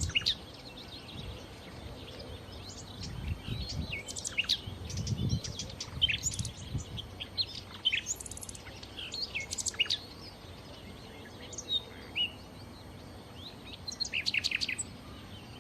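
Nightingale singing: phrases of rapid chirps, quick trills and sharp whistled notes broken by short pauses. A low rumble sits under the song about three to six seconds in.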